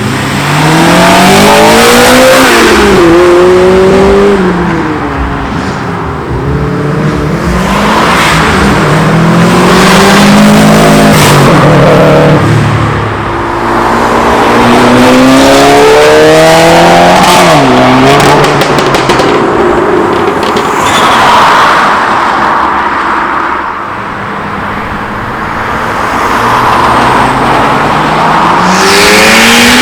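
Tuner cars pulling away one after another, engines revving up and dropping in pitch again and again as they accelerate through the gears and pass by loudly.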